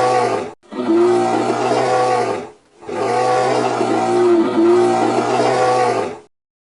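Bear growling in three long spells with short breaks between them: the first ends about half a second in, the next lasts about two seconds, and the last, longest one stops shortly before the end.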